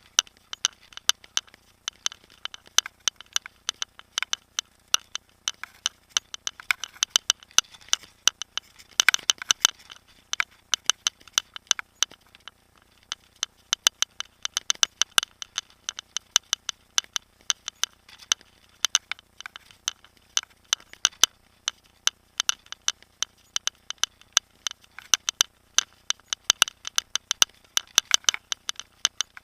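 Mountain bike and its mounted camera rattling over a rough trail: irregular sharp clicks and rattles, several a second, bunching together about nine seconds in and again about fifteen seconds in.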